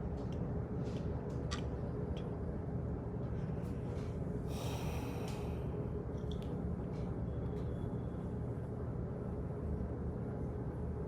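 Office background ambience: a steady low rumble and hum with light clicks and ticks at irregular moments. A brief hissing rush about halfway through.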